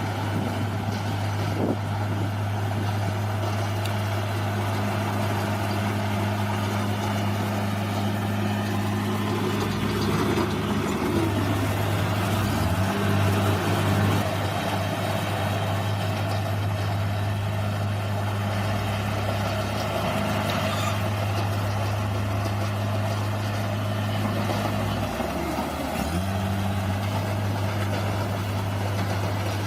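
Bulldozer's diesel engine running steadily. Its pitch dips and glides up between about ten and fourteen seconds in, and dips briefly again near the end as the load changes.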